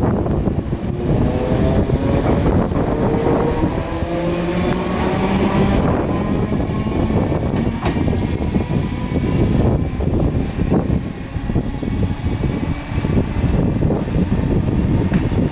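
Class 313 electric multiple unit moving, its motors giving a whine that glides in pitch over the first six seconds and then fades. Wind buffets the microphone throughout.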